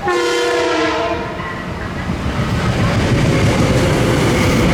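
Train horn sounds one short chord blast of about a second, followed by the rising rumble of the train approaching and running past on the tracks.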